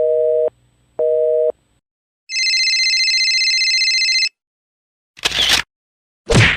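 Telephone busy signal: a steady two-note tone beeping twice, half a second on and half a second off. It is followed by a two-second high electronic warbling tone, then two short sharp noise bursts about a second apart.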